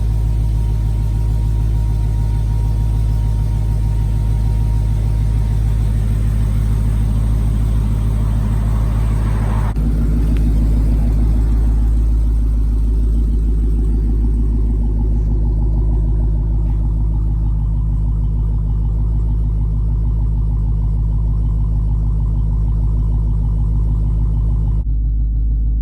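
Car engine running steadily with a low, loud note. The sound changes abruptly about ten seconds in and again near the end, like cuts between shots.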